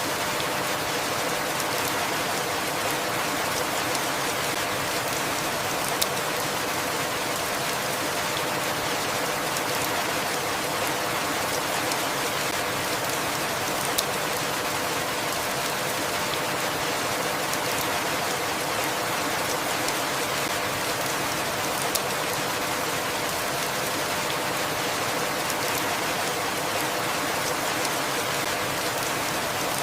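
Steady rainfall, an even hiss throughout, with a few single sharp ticks about eight seconds apart.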